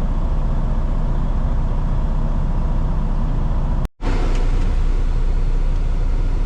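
Truck diesel engine idling steadily, a continuous low hum. The sound drops out briefly about four seconds in, at an edit cut, then carries on unchanged.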